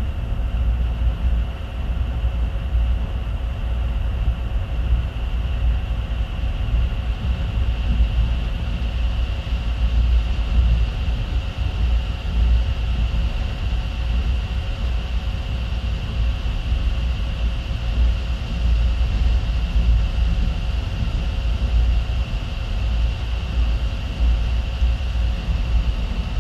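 Passenger train running, heard from inside the carriage: a steady low rumble with a constant thin high tone above it.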